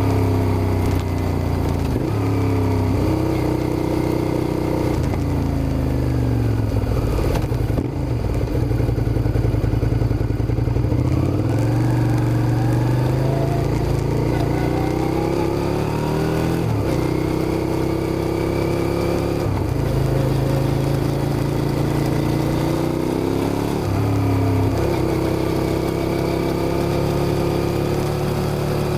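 Suzuki SV650 V-twin engine under acceleration, its pitch climbing and then dropping abruptly at each gear change, about half a dozen times as it is ridden through the gears.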